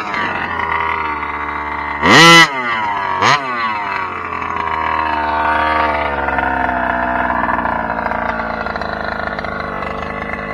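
1/5-scale Kraken Vekta.5 RC trophy truck running, with two sharp revs about two and three seconds in, then its pitch slowly falling as it eases off.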